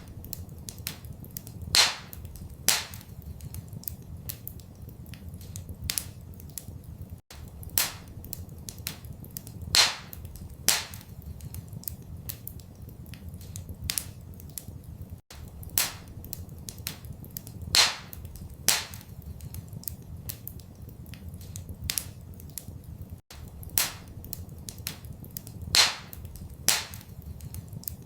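Wood fire crackling in a fireplace, with frequent small ticks and sharp louder pops, over a low steady rumble. The pattern repeats every eight seconds, a short recording played on a loop.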